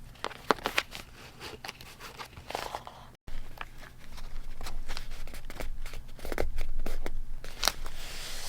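Paper being handled: crinkling and rustling with many small taps and clicks, cut off briefly about three seconds in and then carrying on a little louder.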